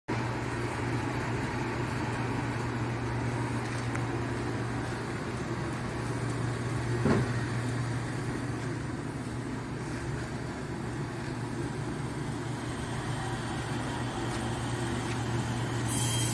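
Steady machine hum of a wood-fired hot-air heater and its blower running to heat a firewood-drying chamber, with a single knock about seven seconds in.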